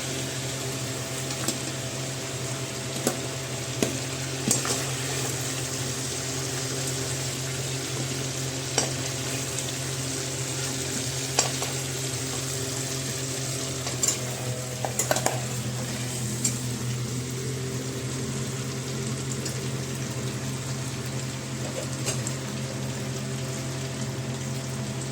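Food frying and sizzling in a pan while being stirred, with a spoon or spatula knocking against the pan about ten times at uneven intervals, over a steady low hum.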